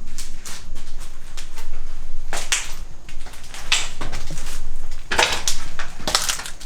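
Footsteps crunching and scuffing over debris strewn across the floor, with irregular knocks and clatter.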